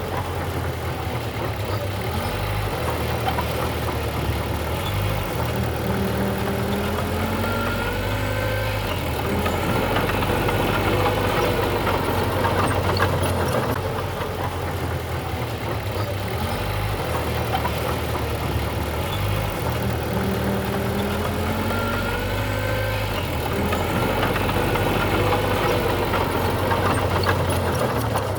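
Diesel engine of heavy earthmoving machinery running steadily under varying load. Its pitch rises and falls in repeated cycles about fourteen seconds apart.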